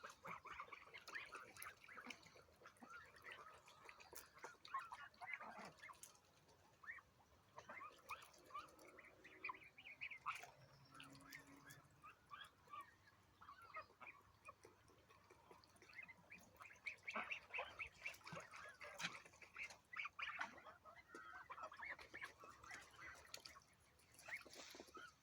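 A flock of poultry calling, faint: many short overlapping calls, busiest past the middle.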